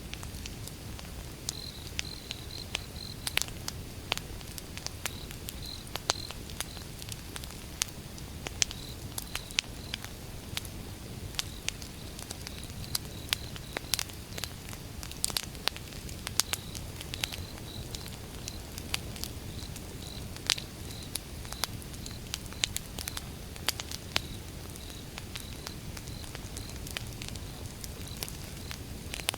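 Burning firewood crackling, with frequent sharp pops over a low rumble of flame. Behind it a high chirp repeats a few times a second.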